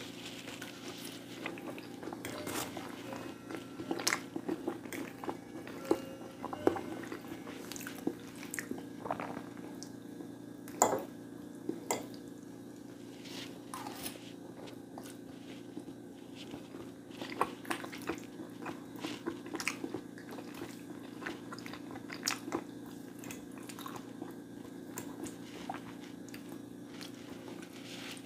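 Close-miked eating: chewing and biting food, with scattered crunches and wet mouth clicks, over a steady low hum.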